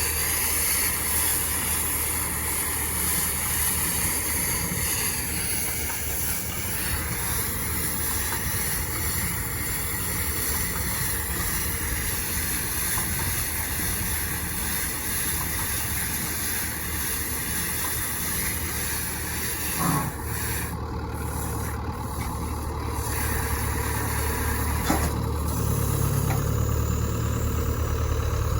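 Tractor engine running steadily, with a high steady whine over it. There is a short knock about two-thirds of the way through and another near the end.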